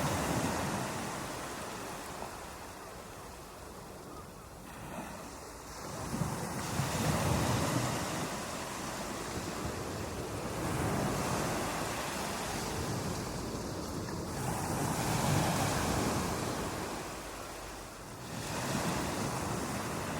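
Ocean waves breaking on a beach: a rushing surge that swells and ebbs every few seconds, with the wash of the surf in between.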